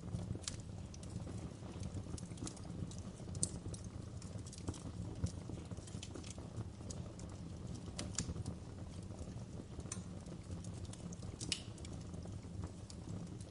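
Fireplace fire crackling: irregular sharp pops and snaps, a few louder than the rest, over a steady low rumble of burning flames.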